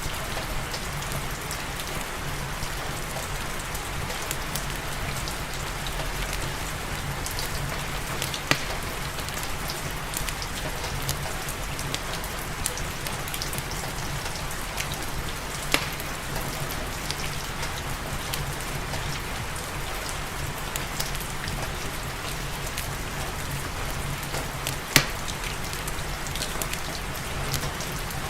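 Steady rain falling, mixed with a wood fire crackling in a fireplace: scattered small crackles and three sharper pops, the loudest near the end.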